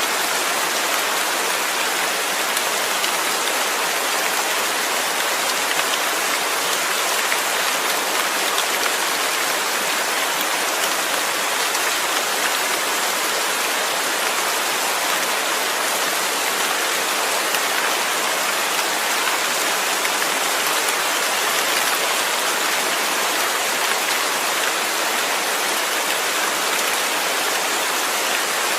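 Rain falling steadily in an even hiss, mostly high-pitched with little low rumble, that does not change.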